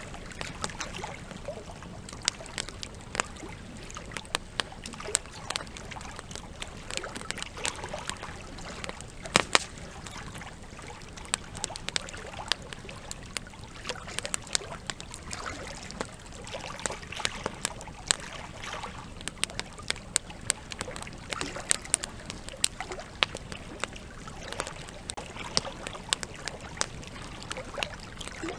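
Campfire wood crackling with frequent irregular sharp pops, one louder snap about nine seconds in, over the steady rush of flowing river water.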